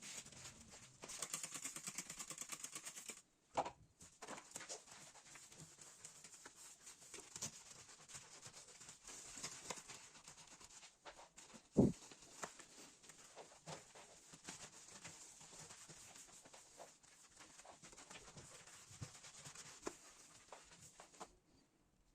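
Household handling sounds, sped up: a rapid stream of small clicks, rustles and light clatter, with a hissing stretch early on and one loud knock about twelve seconds in.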